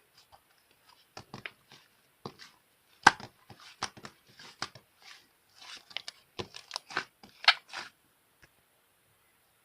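Slime being squeezed and pressed by hand, giving irregular sticky pops and crackles that stop about eight seconds in.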